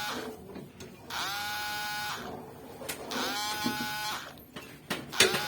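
Cordless drill-driver run in short bursts: three whirs of about a second each, each rising in pitch as the motor spins up and then holding steady, with a sharp click or two near the end.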